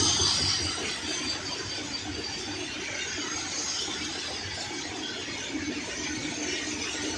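Long freight train of open-top wagons rolling past: steady wheel-on-rail rumble and clatter with a high wheel squeal and hiss that ease after the first second.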